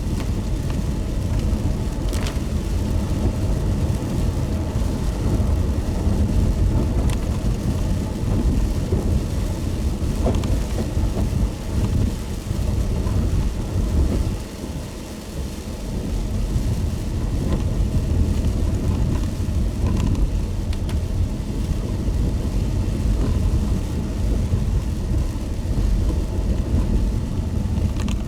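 Car driving in the rain: a steady low road-and-engine rumble under the hiss of rain, with scattered sharp ticks of drops. The rumble dips briefly about halfway through.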